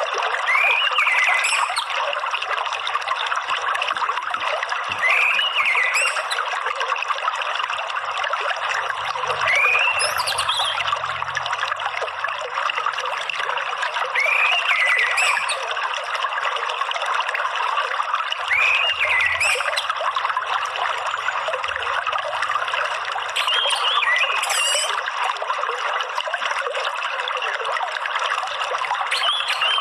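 Steady trickling, flowing water, with a bird's short whistled call repeating about every four to five seconds above it.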